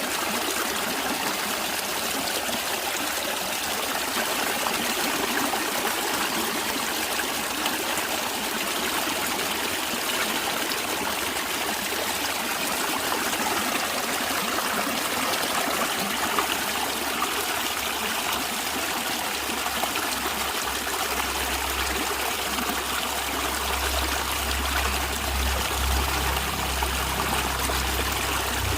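A stream of water running and trickling steadily. A low rumble joins in about two-thirds of the way through.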